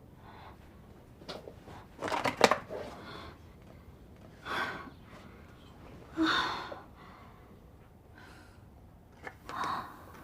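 A woman breathing hard in a few short, separate breaths and sighs, as after waking with a start from a bad dream, with a sharp click or knock about two and a half seconds in.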